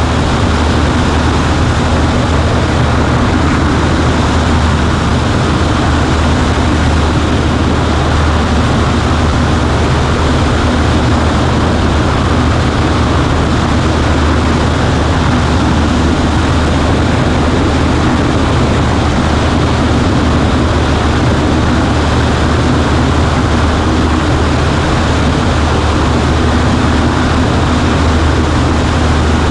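Steady drone of a Cessna 140A's four-cylinder engine and propeller at constant power, with a low hum under a wide rush of noise. It does not change throughout.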